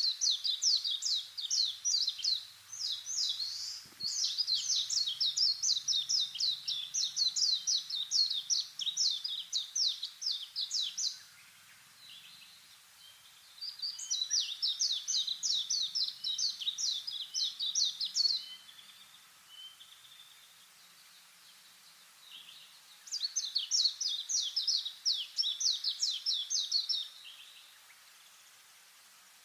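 A small bird singing rapid, high trilled phrases of quick down-slurred notes, in three long bouts with short pauses between them.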